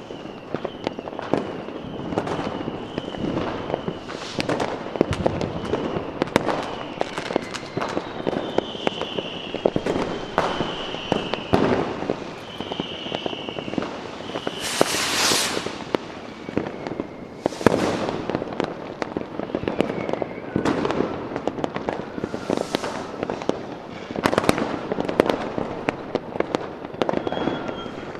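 Fireworks going off continuously: dense bangs and crackling, with a high whistle slowly falling in pitch through the first half and a loud hiss about fifteen seconds in.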